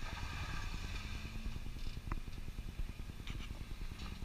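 Engine of a 4x4 off-road vehicle running at low revs as it crawls up rock, a steady rapid low pulsing, with one sharp click about two seconds in.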